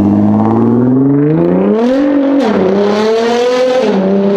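Nissan GT-R R35's twin-turbo V6 accelerating hard: the engine note climbs for about two seconds, drops sharply at a gear change, then climbs again before falling away near the end.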